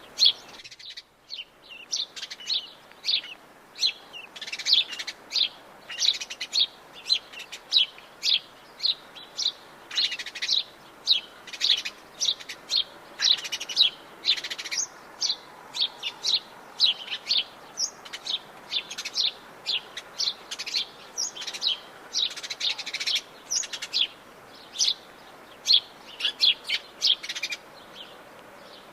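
Atlantic Forest birds chirping and calling in quick succession, short high notes several a second, with a brief lull about a second in.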